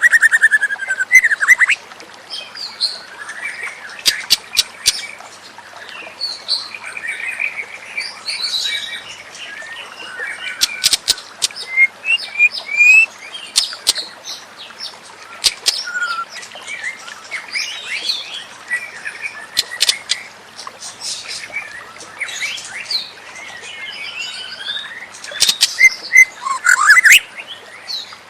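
White-rumped shama singing: a varied, continuous run of whistles, chirps and sharp clicks, loudest in a burst near the end.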